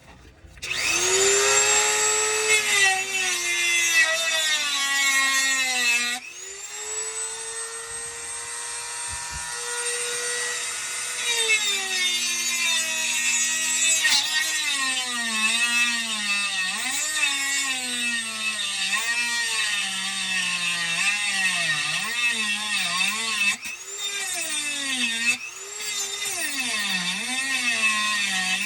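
Power saw cutting through the metal mounting band of a rusted-on garbage disposal. Its motor pitch sags and recovers over and over as the blade bites, with brief let-offs partway through.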